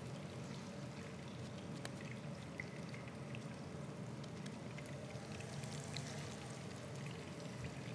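Minced-meat and mint patties frying in oil in a pan: a low, steady sizzle with scattered small crackles.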